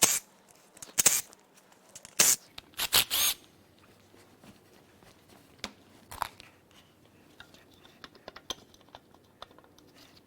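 Hand tools clanking and clicking against the metal parts of a BMW S52 engine during teardown: several sharp metal knocks in the first few seconds, a couple more around the middle, then light scattered ticks.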